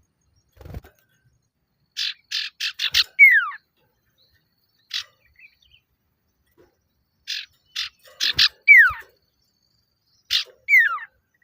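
Male common iora (cipoh, sirtu) giving its challenge call: three phrases, each a quick run of four or five sharp chip notes ending in a clear whistle that falls in pitch.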